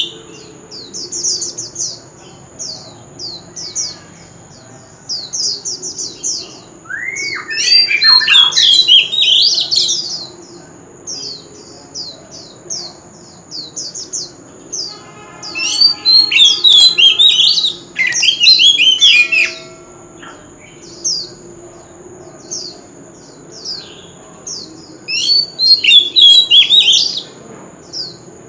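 Oriental magpie-robin singing: a steady run of short, high, repeated notes, broken three times by louder, richer phrases of varied whistles.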